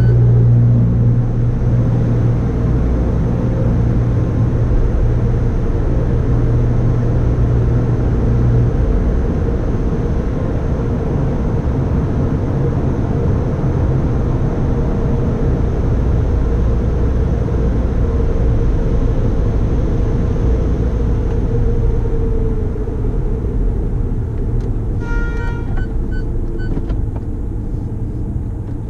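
Car engine running with a steady low rumble as the car creeps into an automatic car wash bay, heard from inside the car. A short electronic chime sounds near the end.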